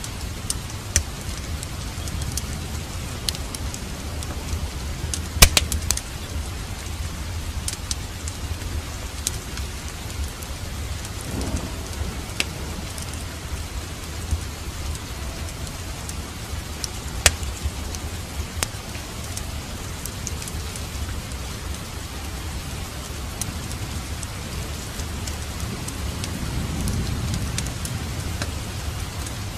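Steady rain together with a crackling fireplace fire: a constant hiss over a low rumble, with scattered sharp pops, the loudest about five and a half seconds in.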